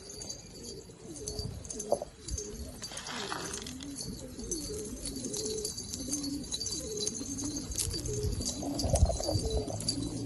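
Several homing pigeons cooing together, their low rolling coos overlapping and repeating.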